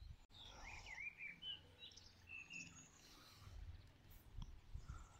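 Faint birdsong: small birds giving short chirps and warbling phrases, over a faint low rumble.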